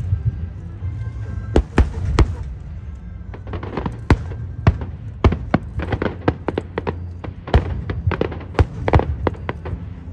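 A fireworks display: shells bursting in a rapid, irregular string of sharp bangs, several a second at times. Music with a steady low bass plays underneath.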